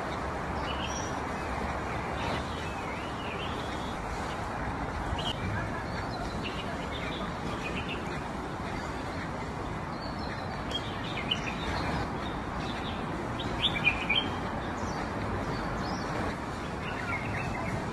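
Small birds chirping in short, scattered calls over a steady background hum, with a few louder chirps a little past the middle.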